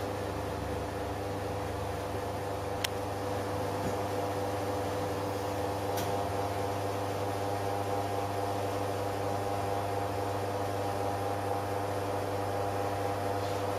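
Pierro Silver commercial espresso machine running a shot extraction: the pump holds a steady low hum. Two faint clicks come about three and six seconds in.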